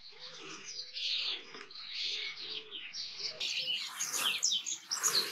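Small birds chirping and twittering, many short calls, denser and louder in the second half.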